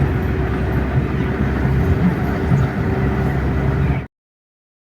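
Steady low rumble of a vehicle engine running at idle, with a faint hum over it, that cuts off abruptly about four seconds in as the recording stops.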